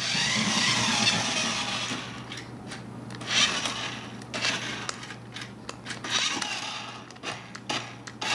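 Small electric drive motor and gears of a remote-control toy car whirring in bursts as it drives, starting and stopping several times, with a long run in the first two seconds.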